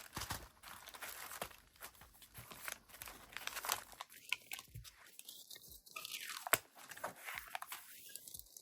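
Crinkling plastic packaging and light clicks of small charms being handled and packed into a container, in scattered short crackles and taps.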